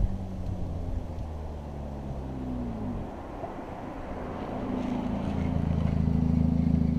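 Nissan Primera's SR20 2.0-litre four-cylinder engine running through a holed, leaking exhaust. The note holds, drops in pitch about two and a half seconds in, then steadies and grows louder over the last couple of seconds.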